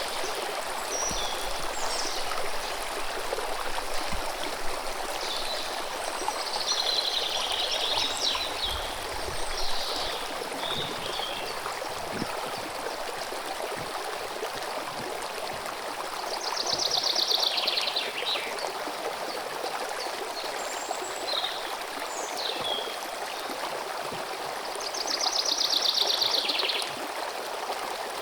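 A river running steadily with an even rush of water, and small birds chirping over it, with two longer rapid trills, one in the middle and one near the end.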